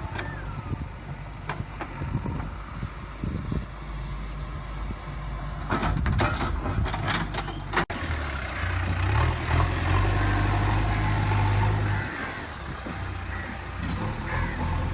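JCB 3DX backhoe loader's diesel engine running, with a cluster of sharp metallic knocks around six to seven seconds in. The engine is louder from about eight seconds in.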